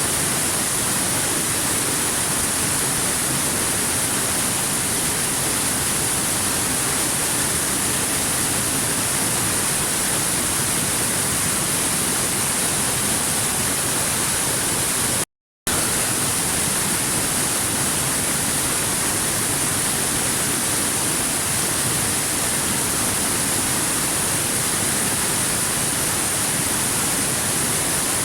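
Waterfall rushing as a steady, even hiss-like roar of falling water. About halfway through, it cuts out to silence for a fraction of a second, then resumes unchanged.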